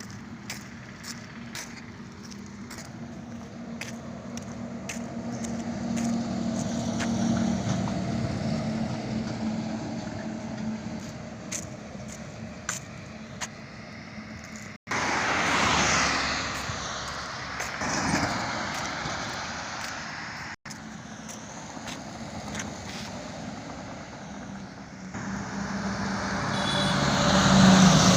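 Highway traffic: vehicle engines and tyre noise, swelling louder as vehicles pass, about 16 seconds in and again near the end. The sound cuts out abruptly twice.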